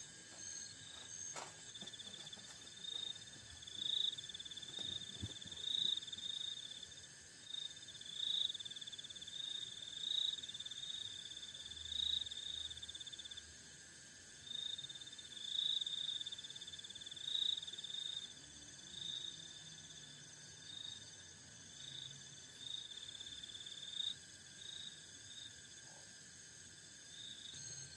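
Insects calling: repeated short, high trilling chirps every second or two over a steady high-pitched drone.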